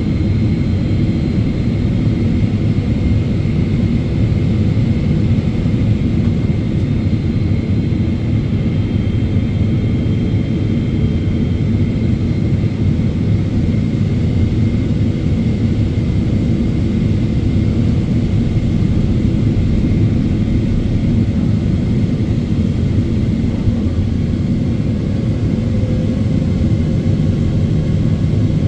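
Steady cabin noise inside a Boeing 777-300ER in flight: a low rumble of airflow and its GE90 jet engines, with a faint steady whine above it.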